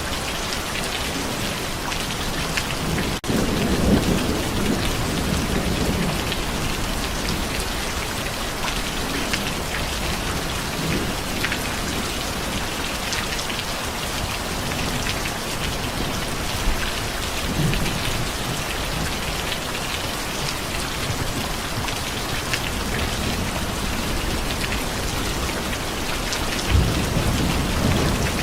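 Steady heavy rain pattering on surfaces, with low rolls of thunder about four seconds in and again near the end.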